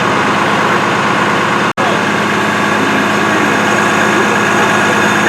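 Heavy diesel engine idling steadily with a constant low hum, typical of fire apparatus running at a fire scene. The sound drops out for an instant just under two seconds in.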